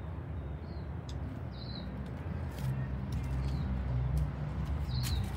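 A small bird chirping, a few short high falling chirps spaced a second or more apart, over a steady low rumble that grows louder in the second half.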